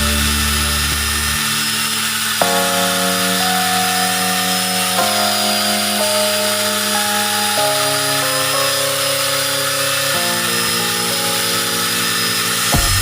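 Background music with sustained chords that change every couple of seconds, over the steady high whine of an electric angle grinder fitted with a chainsaw attachment.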